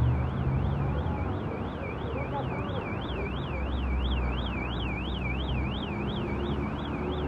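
An electronic alarm warbling, its tone sweeping up and down about three times a second, over the steady hiss of heavy rain and a low traffic hum.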